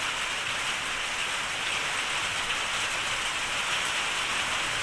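Heavy rain pouring onto a wet street: a dense, steady hiss.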